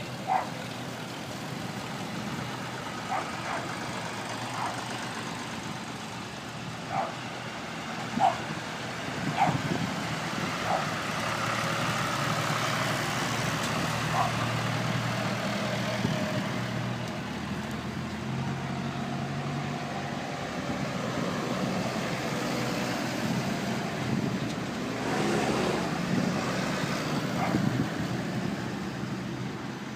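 A procession of farm tractors driving past, several engines running together with a steady low drone that rises and falls as each machine goes by. Short high-pitched blips stand out now and then.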